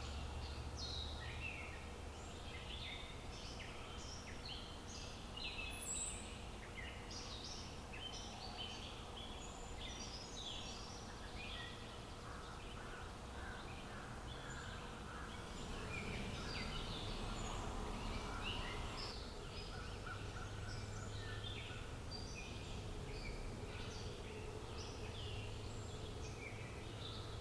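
Several small birds chirping in quick, short notes, many overlapping, over a steady low background rumble.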